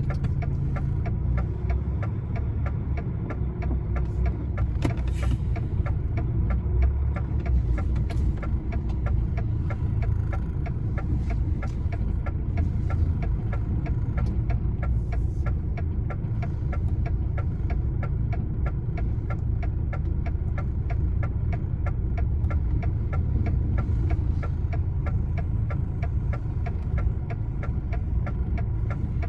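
Heavy lorry's diesel engine running steadily at low revs, heard from inside the cab, with a fast regular ticking over it.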